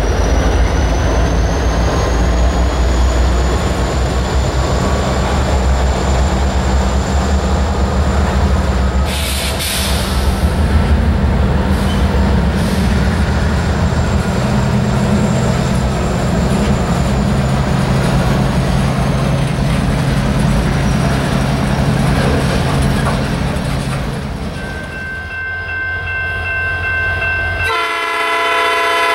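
A Norfolk Southern freight train passing: the GE diesel locomotive's low engine rumble, then covered hoppers and tank cars rolling by with steady wheel-on-rail noise. In the last couple of seconds a locomotive horn sounds.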